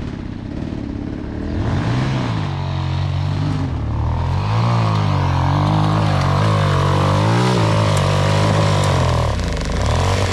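Dirt bike engine revving up and down over and over as the throttle is worked hard, close by. It runs lower for the first couple of seconds, then the revs climb and dip repeatedly.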